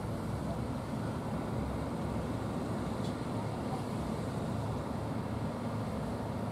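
Heavy ocean surf breaking, a steady low rumble of big waves, with wind buffeting the microphone.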